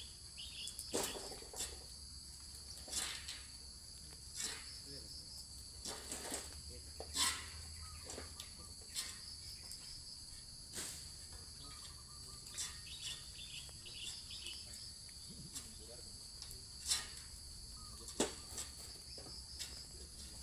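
Insects droning steadily at a high pitch, with irregular short knocks and rustles scattered through.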